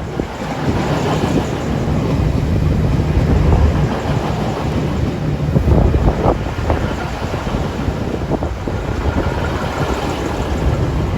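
A diesel train running through the station, its rumble building over the first couple of seconds and then holding loud and steady, with some wind on the microphone.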